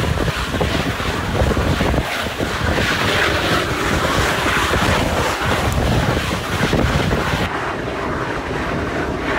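Wind buffeting the microphone at a carriage window over the running rumble of a train hauled by NSW Garratt steam locomotive 6029. The high hiss eases near the end.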